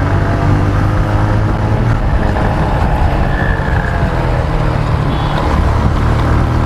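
Motorcycle engine running steadily while riding, with road and wind noise picked up on the rider's lav mic.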